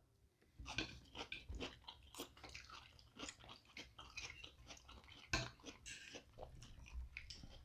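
Close-miked chewing of hibachi shrimp and vegetables by two people: many soft, wet mouth clicks and smacks, with one louder click about five seconds in.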